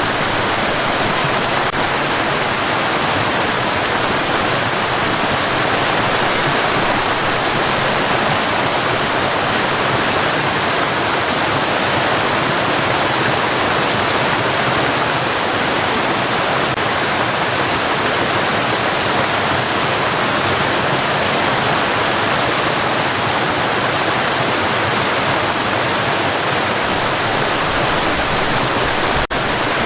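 Steady white noise, an even hiss. There is a very brief dropout near the end.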